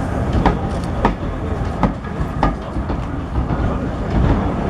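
Train rolling slowly into the station, its wheels clacking over rail joints about once or twice a second over a steady low rumble.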